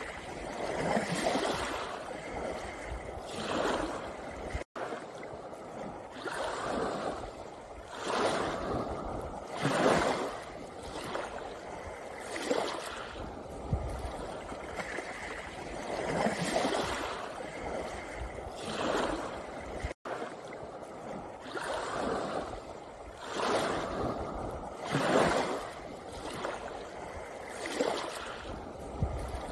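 Small sea waves washing in and out over a pebble beach, one surge of water every two to three seconds. The sound cuts out for an instant twice.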